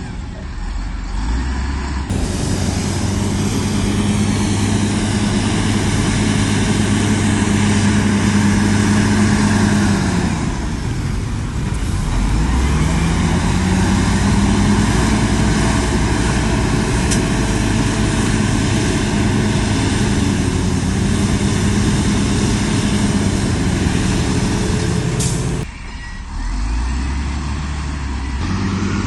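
Heavy diesel earthmoving machine engine running hard under load. About ten seconds in the revs sag for a second or two, then climb back and hold steady. The sound changes abruptly shortly after the start and again near the end.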